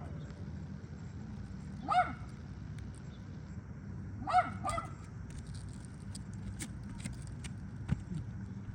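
Short, pitched animal calls: one about two seconds in and a quick pair about four and a half seconds in, over a steady low hum and a few light clicks.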